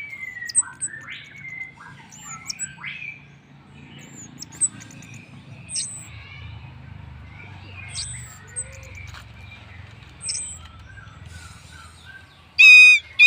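Orange-headed thrush (Anis merah) singing a varied song of short high whistles and sweeping notes, the kind of recording used as a lure to set other birds singing. A brief, loud note comes near the end.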